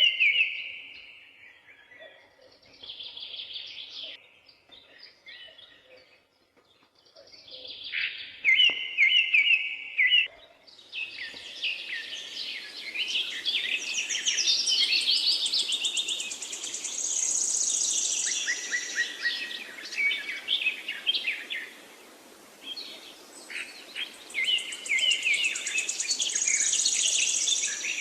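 Songbirds chirping and singing: separate short phrases at first, then from about a third of the way in a denser chorus of overlapping trills and chirps over a steady background hiss.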